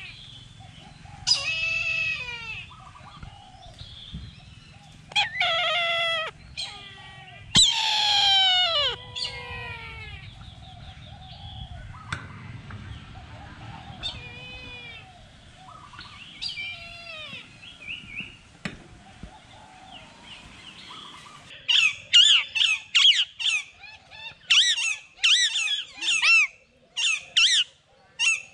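Birds calling: a few loud, harsh calls that slide down in pitch, fainter calls in between, then a quick run of short repeated calls, about two a second, near the end.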